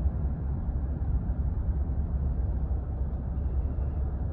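Steady low rumble of a pickup truck on the move, engine and road noise heard from inside the cab.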